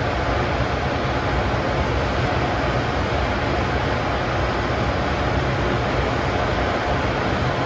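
Cooling blowers of a stationary electric freight locomotive running, a steady rushing noise over a low hum.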